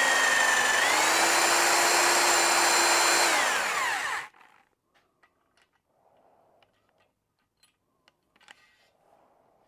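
Electric drill spinning a stone cylinder hone in a Yamaha 250 outboard's cylinder bore. The motor's whine dips briefly under load, then winds down and stops about four seconds in, followed by a few faint clicks and taps.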